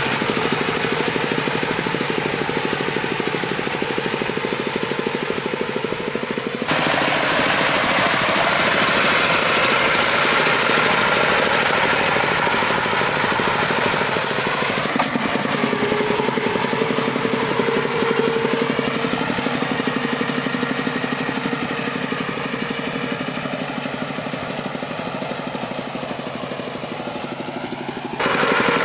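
Farm tricycle truck's engine running with a rapid knocking beat, its pitch shifting now and then. The sound changes abruptly three times, about 7, 15 and 28 seconds in.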